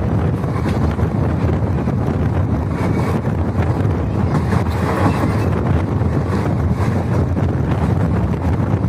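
Passenger train running along the line: steady rumble of the carriage on the rails, with wind buffeting the microphone.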